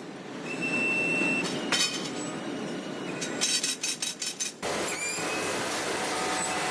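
Factory floor noise: a brief high whine, then a run of sharp metallic clanks and clinks. About four and a half seconds in, it switches abruptly to a steadier machinery noise.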